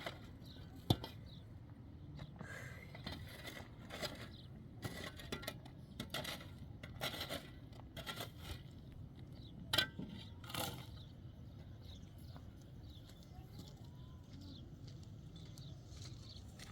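Scattered light knocks, clicks and scrapes of handling objects over a low steady background, with one sharper knock about one second in and a louder pair near the middle.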